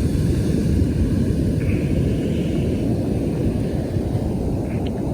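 Steady low rumble of wind buffeting the microphone, over the wash of ocean surf.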